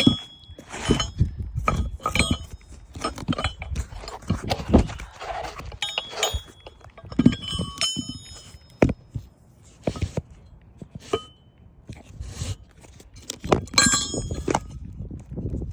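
Irregular knocks and thunks with short metallic clinks of tools and gear being handled on a shingle roof, with clusters of ringing clinks near the start, in the middle and near the end.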